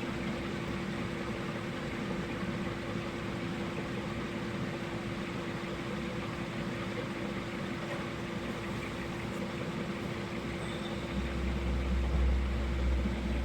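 Steady background hum with a constant mid-pitched tone over an even noise. A deep rumble swells in over the last couple of seconds.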